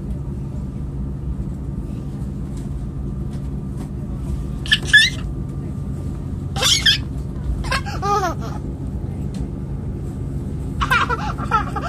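Steady low rumble of a moving train heard from inside the carriage, with a small child's short high-pitched squeals breaking in four times, about five, seven, eight and eleven seconds in.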